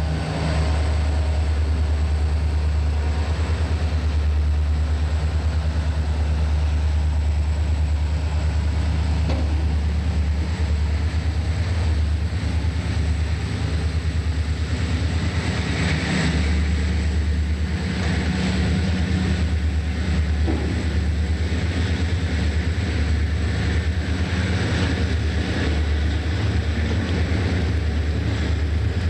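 Diesel freight train running by: a steady low engine rumble under the continuous rolling noise of the train.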